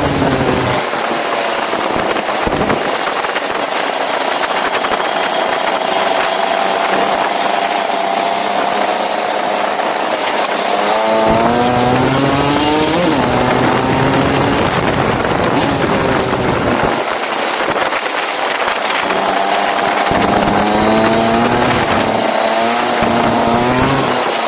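Go-kart engine running at speed, easing off and then revving up again twice, its pitch rising as it accelerates, over a steady rushing noise.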